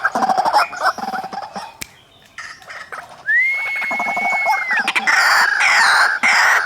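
White-breasted waterhens, male and female, calling: rapid repeated harsh notes. They break off about two seconds in, a single long level whistle follows, and then the loud calling picks up again.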